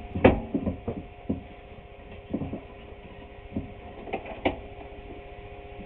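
Scattered knocks and clunks of wooden boards being handled and set down, about seven in all, the loudest just after the start, over a faint steady hum.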